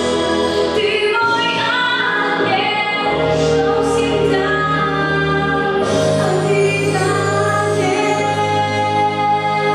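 A girl's solo voice singing a song over instrumental accompaniment, holding long sustained notes over a steady bass.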